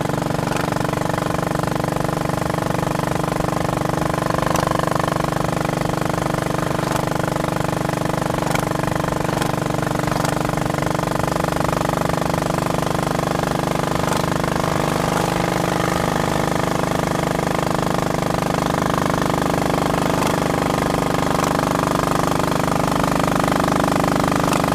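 Royal Enfield Bullet Machismo 500's single-cylinder four-stroke engine running steadily as the motorcycle is ridden, its note wavering slightly and growing a little louder near the end.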